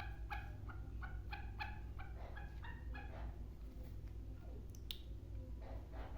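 Black francolin calling: a rapid run of short, harsh notes, about three a second, that breaks off about three seconds in and starts again near the end. A low steady hum lies underneath.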